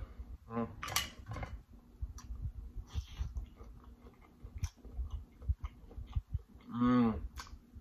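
A person chewing a sauced shrimp close to the microphone: wet mouth clicks and smacks in an uneven run. A brief hum of the voice comes about a second before the end.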